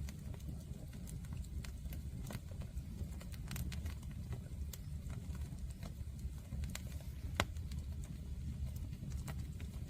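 Wood fire crackling, with irregular sharp pops and snaps over a steady low rumble; the loudest pop comes about seven and a half seconds in.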